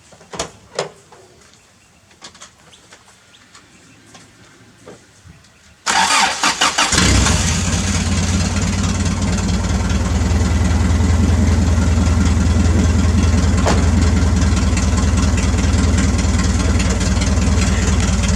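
Toyota 4Y four-cylinder petrol engine in a Hilux cold-started: a few faint clicks, then about six seconds in it cranks and catches unevenly for a moment before settling into a steady, loud idle.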